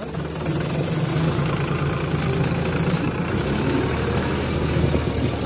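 Sonalika RX 35 tractor's diesel engine running steadily.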